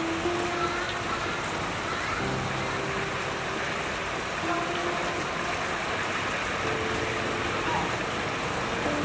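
Heavy rain falling steadily, with a few faint brief tones over it now and then.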